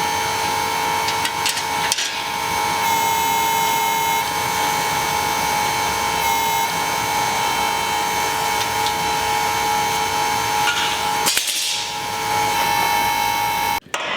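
A workshop power tool running with a steady whine over a constant hiss. It is interrupted briefly about eleven seconds in and cuts off near the end.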